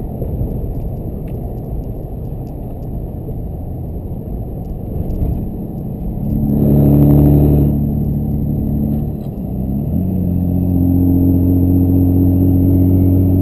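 Compound-turbocharged 5.9 Cummins diesel pickup at highway speed, heard from inside the cab: low road and engine rumble, swelling louder for a couple of seconds about six seconds in, then a brief rising pitch and a steady engine drone from about ten seconds on.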